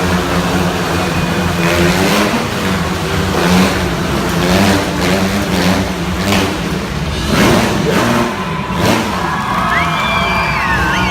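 Several motorcycle engines running and revving inside a steel globe of death, surging again and again as the riders circle the cage. Near the end, music with gliding high notes comes in over the engines.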